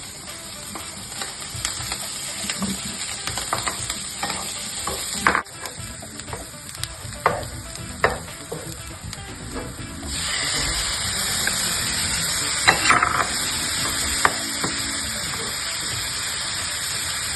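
Peppers frying in oil in a frying pan, sizzling while stirred, with a utensil clicking and scraping against the pan; the sizzle grows louder and steadier about ten seconds in.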